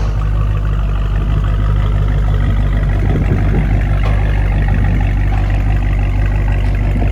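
2020 Dodge Challenger Widebody's V8 running steadily through an exhaust with the mid-muffler removed, a steady rumble sitting mostly low in pitch.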